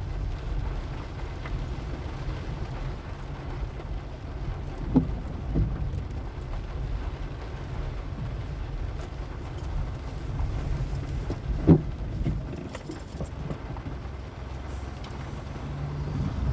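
A car driving slowly with a steady low rumble of engine and road noise, broken by a few short thumps about five seconds in and a louder one near twelve seconds.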